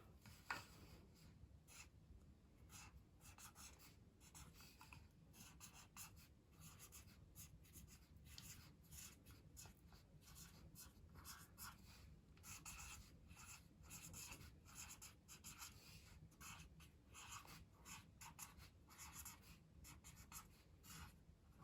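Handwriting with a pen: faint, short scratching strokes in quick succession, with brief pauses between words.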